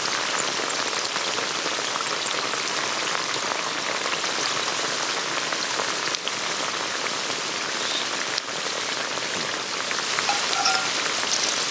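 Mountain stream babbling: a steady, unbroken rushing hiss of running water.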